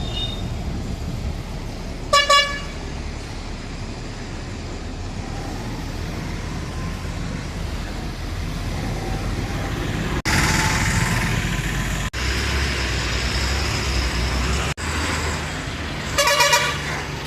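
Road traffic with heavy vehicle engines running steadily. A vehicle horn blasts briefly about two seconds in and again near the end.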